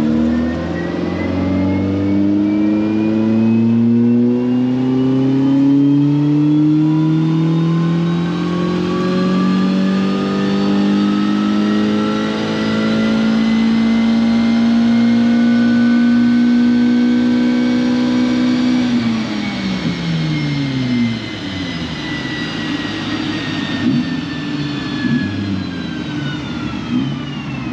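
Naturally aspirated Ford Fiesta rally car engine in a full-throttle pull on a chassis dyno: the engine note climbs steadily through the revs for about eighteen seconds. Then the throttle closes, the revs drop quickly, and a low rumble carries on as the car runs down on the dyno rollers.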